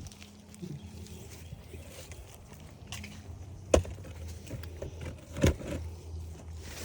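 Motorcycle engine running with a steady low hum, broken by two sharp knocks about a second and a half apart near the middle.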